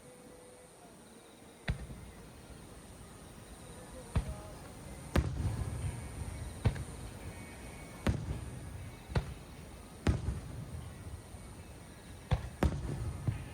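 Aerial fireworks shells bursting: about nine sharp bangs at uneven intervals, starting near two seconds in, each trailed by a low rumbling echo.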